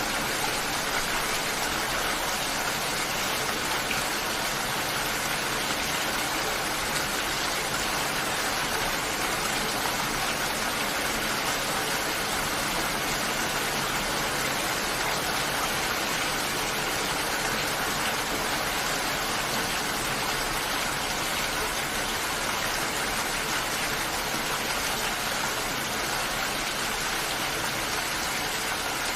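Steady, even rain falling, a dense hiss of many drops with no single drop standing out.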